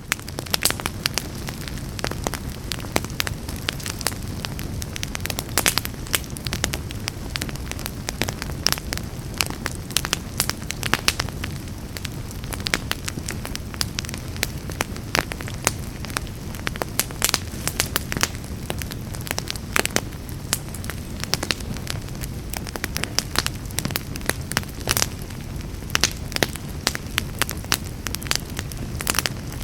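Fire burning in a fireplace: frequent sharp crackles and pops over a steady low rumble of flames.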